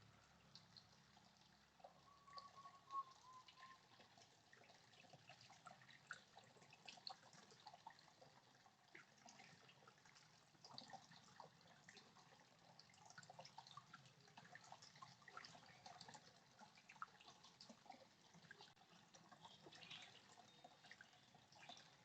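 Faint dripping and trickling water: many small scattered ticks of drops. A short whistled note comes about two seconds in.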